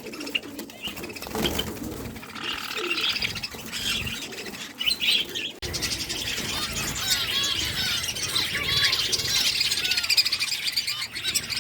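Many small cage birds chirping and twittering at once, with some wing flapping. The chirping becomes denser and louder about halfway through.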